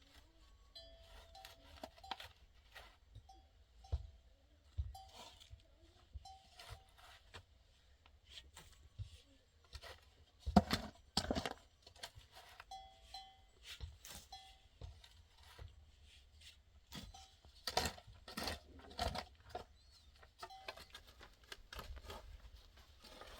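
Small bells on grazing goats or sheep clinking on and off in short, irregular rings, with scattered sharp knocks, the loudest about ten to eleven seconds in and again near eighteen seconds.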